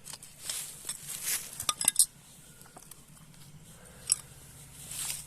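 Rustling, then a quick cluster of sharp clinks and knocks of hard objects being handled, with one more single clink about four seconds in.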